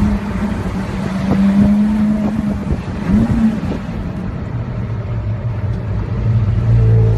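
Porsche Carrera GT's V10 engine running at a steady pitch, with a quick blip of the throttle about three seconds in, then settling to a lower, steady note.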